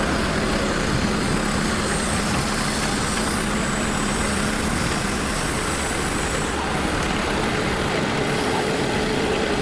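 Engine of a forestry tree-cutting machine running steadily under work. It has a constant hum, and a higher tone comes in about seven seconds in.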